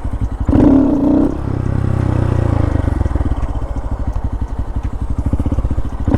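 Honda Grom's 125 cc single-cylinder four-stroke engine running as the bike is ridden, a steady rapid putter with a brief wavering rise about half a second in.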